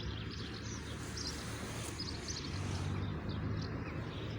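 Small birds chirping intermittently with short high calls, over a steady low rumble of outdoor background noise.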